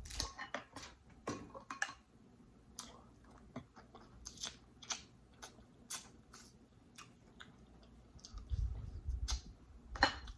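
Close-miked eating sounds: an irregular string of short, wet clicks and smacks from chewing and handling the food, with a dull low thump-like rumble near the end.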